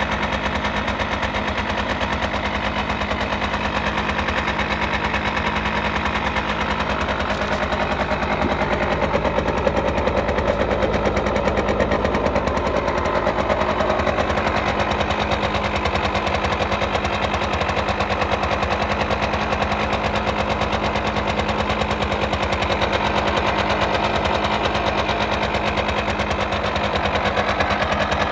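Derbi D50B0 50cc two-stroke single-cylinder engine running steadily at idle, a rapid even popping. It gets a little louder for a few seconds in the middle.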